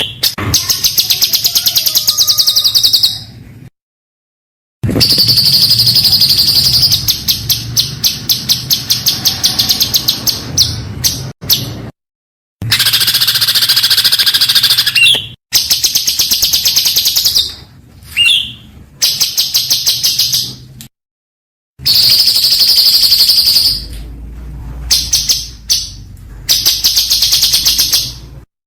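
A songbird singing rapid, high-pitched trilled bursts, the fast 'tembakan' song style used as training recordings for contest birds. The song stops dead several times at edit cuts and starts again.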